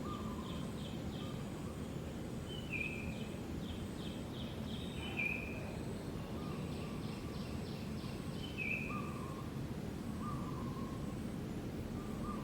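Outdoor background noise, a steady low rumble, with birds calling over it: short repeated chirps and quick trilled runs of ticks, recurring every second or two.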